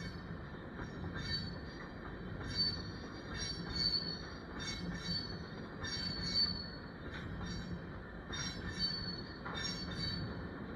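Empty potash cars of a freight train rolling past, the wheels giving short high-pitched squeals again and again over a steady low rumble.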